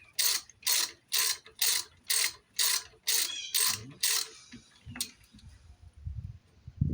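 Hand ratchet wrench clicking in quick, even strokes, about two a second, taking a fastener apart; it stops about four seconds in, followed by a few soft knocks and a low thud near the end.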